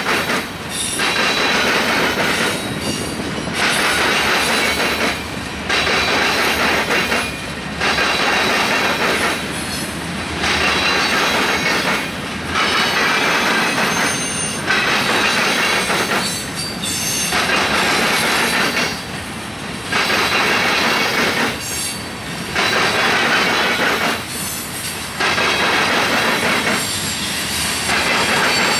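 Freight train cars rolling past close by, steel wheels on rail with a high squeal. The noise swells and dips about every two seconds as car after car goes by.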